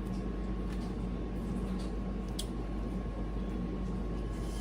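Steady low background hum with a faint steady high tone, and two or three faint clicks.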